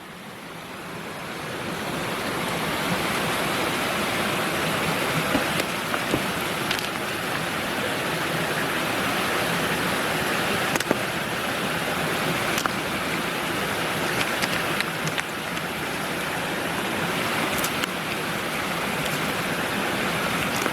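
Mountain creek water rushing steadily, rising over the first couple of seconds and then holding, with a few faint clicks scattered through.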